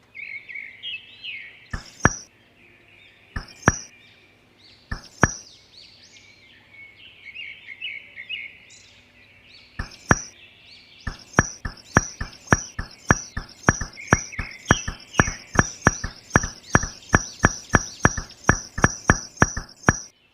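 Sharp knocks, a few scattered at first, then a quick regular series of about three a second from about halfway on, with birds chirping throughout.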